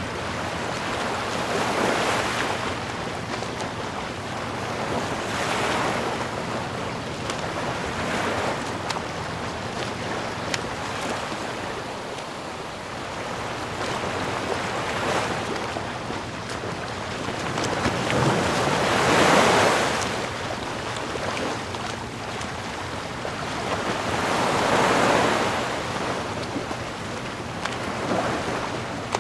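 Sea waves washing in, swelling and ebbing every few seconds; the biggest surge comes about two-thirds of the way through.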